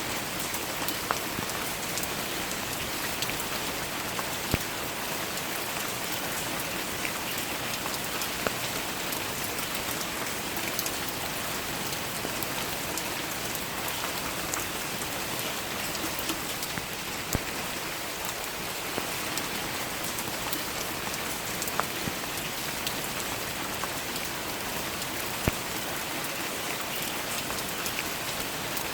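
Steady rain falling, a dense even patter with occasional louder single drops ticking out of it.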